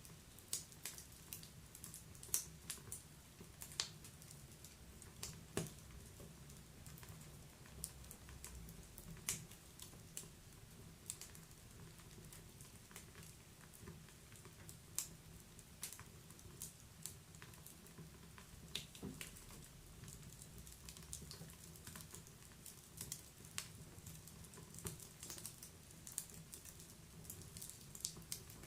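Wood fire burning in a fireplace, crackling: many irregular sharp pops and snaps, a few louder than the rest, over a soft low background rumble.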